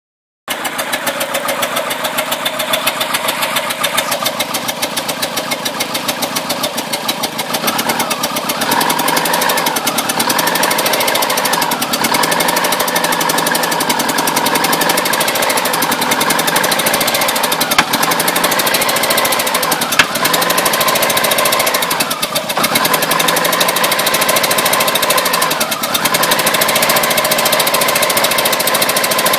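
1993 Mercury Tracer's 1.9-litre SEFI four-cylinder engine running with a fast popping noise, which began after the camshaft position sensor was replaced. It grows louder about a quarter of the way in, and two sharper pops stand out past the middle.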